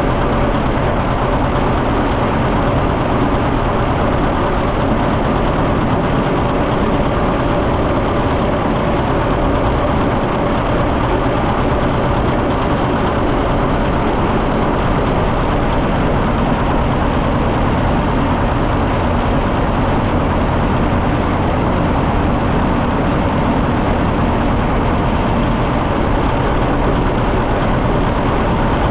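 John Deere 730 tractor's two-cylinder engine running steadily, with an even pitch and no change in speed.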